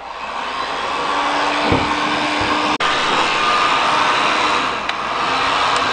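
Hot-air gun blowing steadily, heating the aluminium gearbox housing so a ball bearing can be fitted. It swells up at the start, with a short click and dip about three seconds in.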